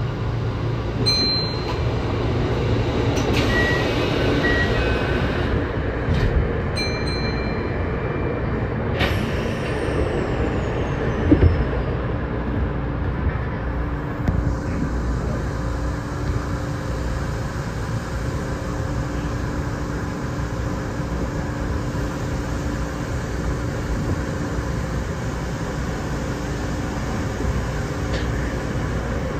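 Kintetsu 6820 series electric commuter train running along the line: a steady rumble of wheels on rail with a low hum under it. A few short high beeps about four seconds in, and a single knock about eleven seconds in.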